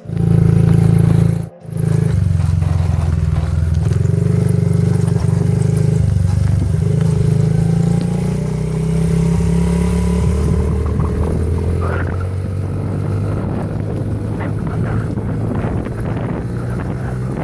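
Small 50cc motorbike engine running under way, its pitch rising slowly as it picks up speed in the first half. The sound drops out briefly twice near the start.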